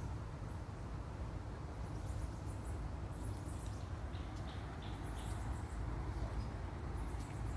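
Outdoor ambience: a steady low rumble, with faint short bird chirps starting about two seconds in and coming in small clusters.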